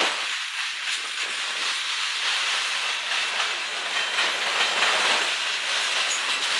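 A steady hissing noise, mostly high-pitched, with a faint thin steady tone above it.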